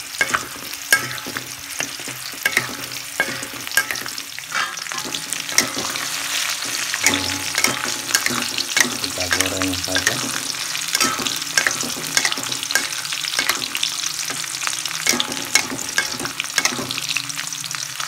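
Sliced shallots frying in hot oil in a metal wok: a steady crackling sizzle, with a metal spatula scraping and clicking against the wok as they are stirred.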